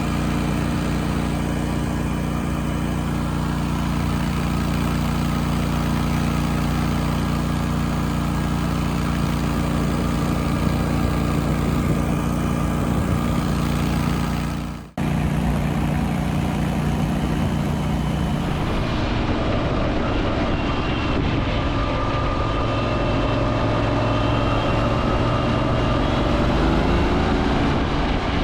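Kohler Command V-twin engine running steadily under way. About halfway through the sound breaks off for a moment and comes back changed, with higher tones added.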